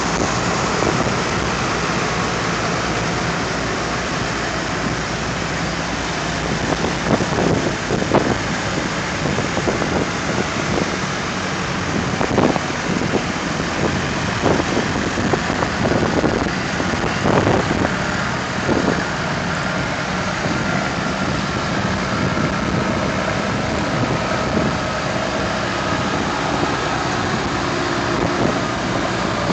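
Vintage tractor engines running, under a steady hiss, with a run of short sharp knocks from about 7 to 19 seconds in.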